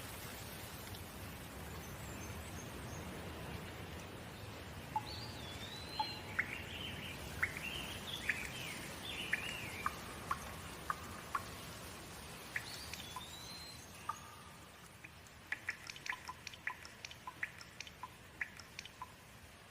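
Steady rain with birds chirping in short up-and-down calls through the middle. Near the end the rain hiss eases a little and a quick run of sharp drips takes over.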